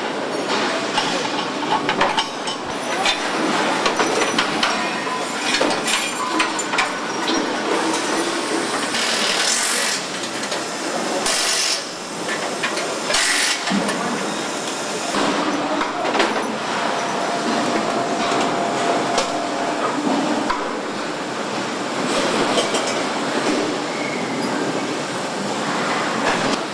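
Truck assembly plant floor noise: a steady clatter of metal knocks and clanks from the line, with three short bursts of hiss near the middle.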